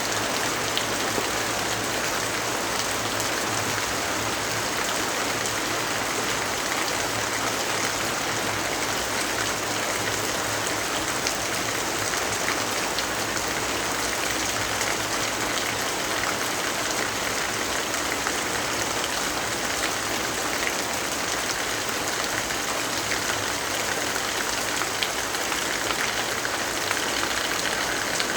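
Steady, heavy rainfall: an even hiss with scattered faint ticks of single drops.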